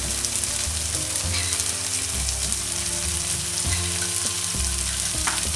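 Onion, tomato and spice masala sizzling in a frying pan while tomato purée is stirred in with a wooden spoon.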